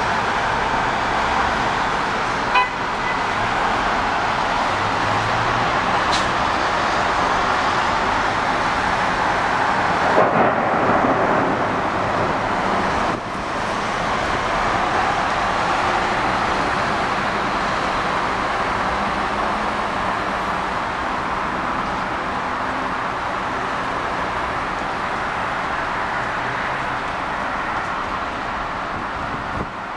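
Heavy rain pouring down steadily: an even hiss, swelling a little around ten seconds in.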